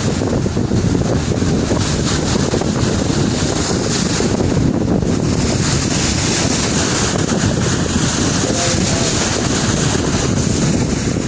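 Wind buffeting the microphone on a moving boat, a steady loud rush, with the boat and the sea rumbling underneath.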